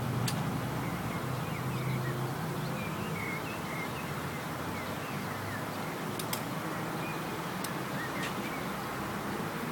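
Small birds chirping over a steady low outdoor rumble, with a few faint sharp clicks, one about six seconds in.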